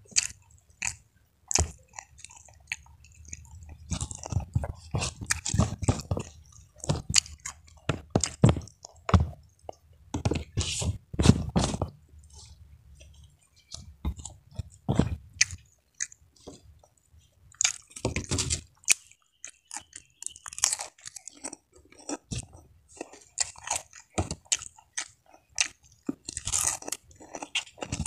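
A person chewing and crunching crisp food close to the microphone, in irregular runs of bites with short pauses between them.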